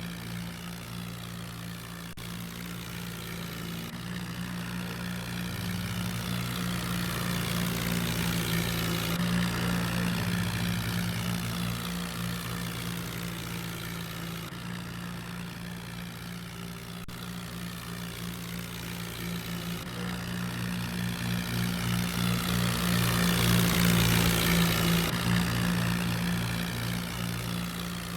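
A heavy engine running steadily, its sound swelling and fading twice.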